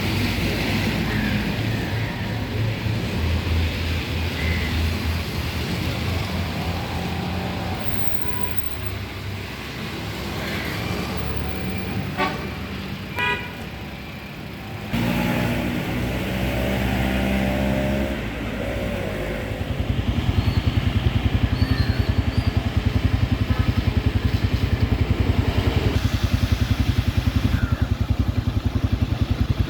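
Road traffic: running car and motorcycle engines with short horn toots, under a steady noisy wash. The sound changes abruptly twice, and in the last part a fast, even engine-like pulsing dominates.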